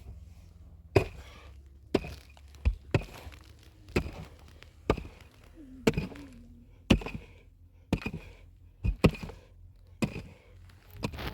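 Sharp, regular chopping blows from a hand tool, about one a second, around ten in a row.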